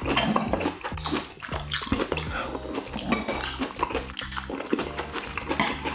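Close-up mouth sounds of chewing stir-fried small octopus and beef large intestine: wet, crackly chewing clicks. Background music with a stepping bass line runs under it.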